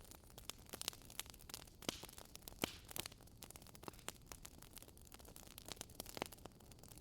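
Wood fire in a fireplace crackling faintly: irregular sharp pops and snaps over a low hiss, with one louder pop a little before the middle.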